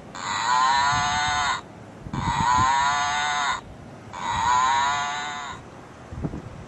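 The same drawn-out pitched call plays three times in a row, each about a second and a half long with short gaps between. It is an edited-in sound clip laid over faint outdoor background noise.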